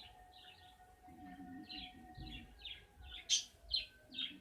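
A small bird chirping over and over in short, quick, falling chirps, about two to three a second, getting louder in the second half.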